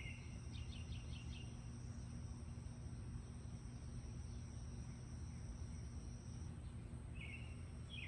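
Outdoor ambience with a steady low rumble and a thin high steady tone that stops about two-thirds of the way through. Over it, small birds chirp: a quick run of about five notes about half a second in, and a few short chirps near the end.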